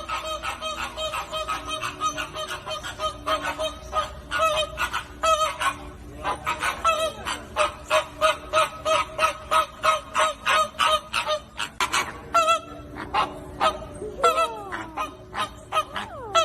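A flock of flamingos honking: many short calls in quick succession, several a second and overlapping, with a few longer calls that fall in pitch.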